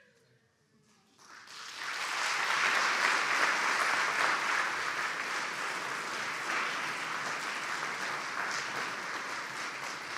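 Audience applauding after a piece ends, starting about a second in after a brief silence and continuing steadily, thinning near the end.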